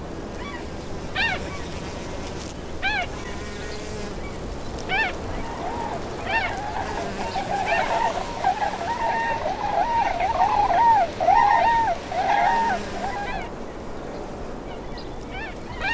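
Birds calling: short calls every second or two, with a stretch of rapid, chattering calls in the middle.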